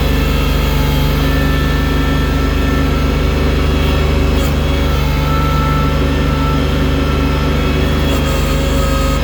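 Engine of the snow-clearing machine fitted with a loader bucket, running steadily with a deep, even hum.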